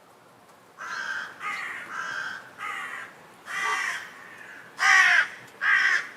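A bird giving a series of about seven harsh, rasping calls, each about half a second long, the loudest near the end.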